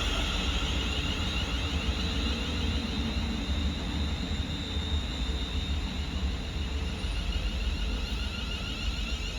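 Train passing through the station, a steady rushing rail noise that fades slightly toward the end, over a low rumble of wind on the microphone.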